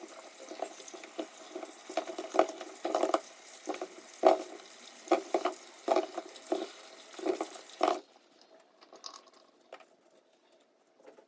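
Water running from a tap into a sink, with irregular knocks and splashes. It stops suddenly about eight seconds in, leaving only faint clicks.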